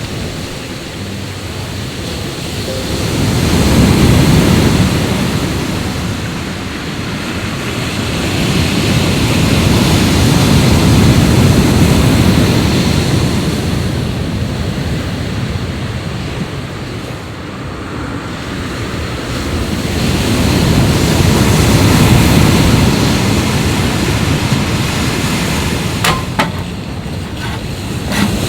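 Sea waves washing onto the shore, the surf swelling and fading in slow surges several seconds apart. A few small clicks come near the end.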